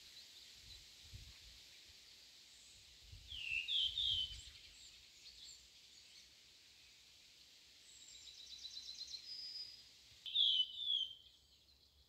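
Songbird singing outdoors: a quick phrase of three slurred whistled notes about three seconds in, a rapid even trill a few seconds later, and the three-note phrase again near the end, over a steady high hiss of ambient countryside. Low rumbles of wind on the microphone come and go in the first few seconds.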